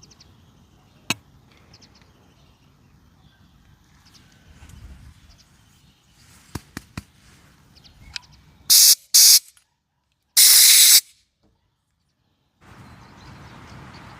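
Three short, loud hissing bursts of pressurised spray while cleaning a scooter carburetor, the last one longer. A few light clicks come before them.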